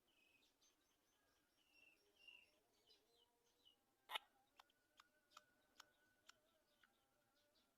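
Faint, high bird chirps, then a sharp click about four seconds in, followed by a run of lighter clicks about two a second.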